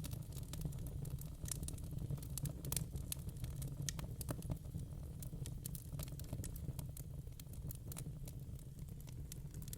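Wood fire crackling in a fireplace: a quick, irregular run of small pops and snaps over a steady low rumble.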